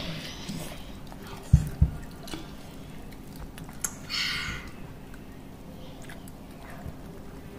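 Children chewing and biting into fried chicken, with soft wet mouth sounds and small clicks. Two dull thumps come about one and a half seconds in, and a short hiss a little after four seconds.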